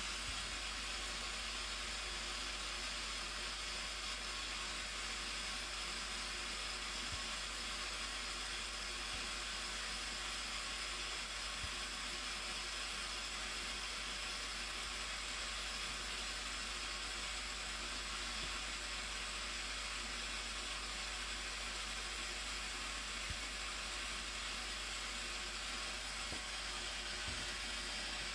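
The Blue Nile Falls' water crashing down, a steady, even rushing noise that holds at one level.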